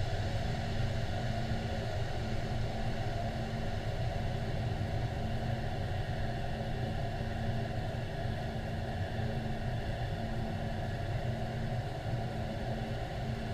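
Steady low machinery rumble with a constant hum tone underneath, unchanging throughout, typical of an aircraft carrier's onboard machinery and ventilation running.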